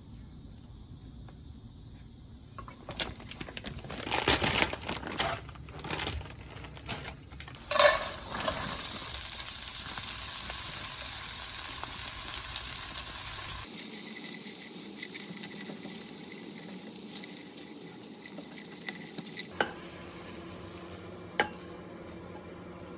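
Cooking sounds: a pan and utensils clattering, then a steady sizzle of food frying that cuts off suddenly, followed by a few light clinks.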